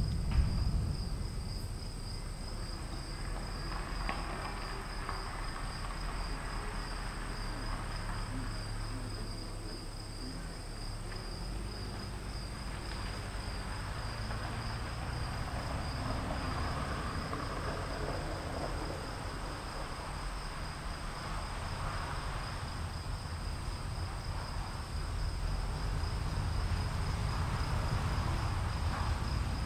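Storm ambience: insects chirring steadily and high over a low rumble of distant thunder, with a wash of rain and wind that swells and fades. The rumble grows louder near the end.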